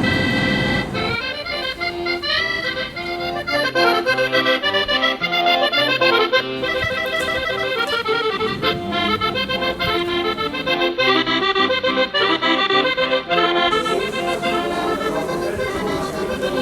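Accordion music: a lively folk tune played in quick runs of notes.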